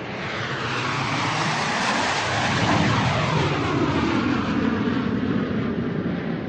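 Airplane flying overhead: a rushing engine noise that swells up, peaks a couple of seconds in with a sweeping, falling tone as it passes, then slowly fades.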